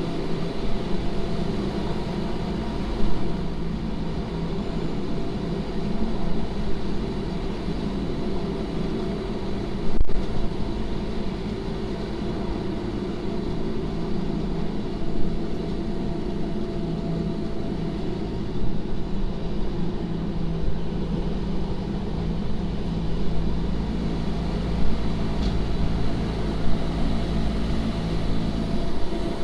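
Electric rack-railway train of the Wengernalp line running: a steady hum from the motors and drive with the rumble of wheels on the rails, broken by occasional knocks, the sharpest about ten seconds in.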